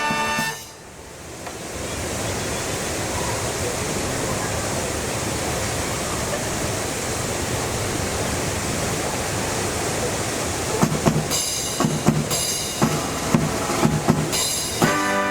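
Strong wind rushing over the microphone in an even, steady hiss, after a brass band's chord cuts off just after the start. Near the end a few short low thumps come, then the brass band starts playing again.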